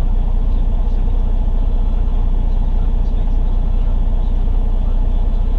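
Semi truck's diesel engine idling with a steady, low, fast-pulsing rumble.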